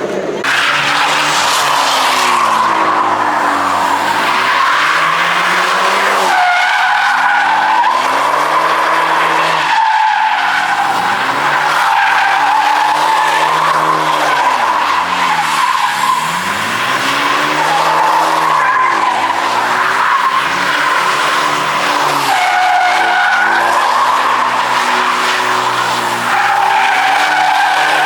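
A car doing donuts: tyres squeal steadily while the engine revs up and drops back in repeated swells every few seconds.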